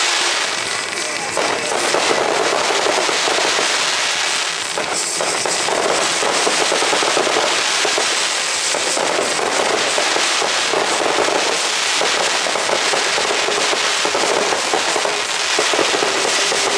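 Aerial consumer fireworks going off in a rapid finale barrage: dense, continuous crackling and popping, with many bursts overlapping and no pause between them.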